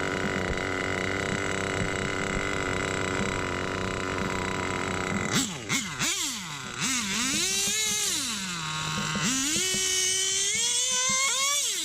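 Small nitro RC car engine idling steadily, then revved in a series of quick rising and falling blips and two longer climbing revs that drop back near the end, as it is tuned between speed runs.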